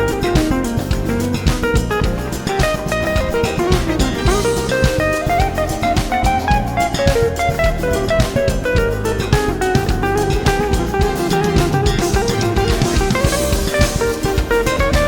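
Live smooth-jazz band: an electric guitar plays quick melodic runs that climb and fall, over bass, keyboards and a drum kit.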